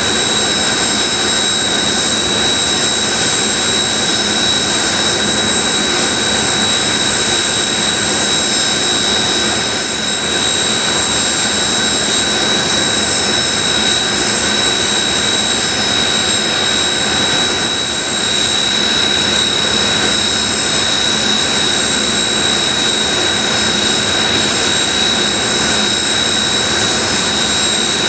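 Jet engines of Blue Impulse Kawasaki T-4 trainers running on the ground after start-up, a loud, steady rush with a constant high-pitched whine.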